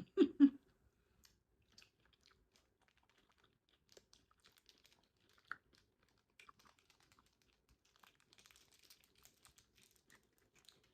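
A person chewing a mouthful of vegetable sushi close to the microphone: faint, scattered wet clicks and soft crackles, with a brief, louder low "mm" hum right at the start.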